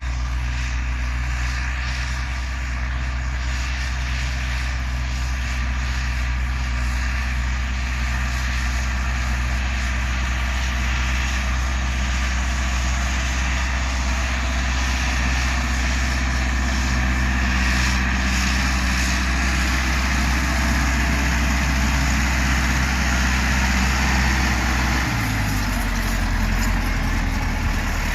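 Millat 385 tractor's diesel engine running steadily at a constant speed. About 25 seconds in, its pitch steps down a little as the engine slows.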